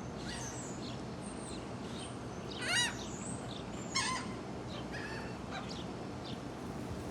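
Gulls calling: a loud call of several quick notes about three seconds in, a sharp short call about a second later, and fainter short calls scattered throughout, over a steady background hiss.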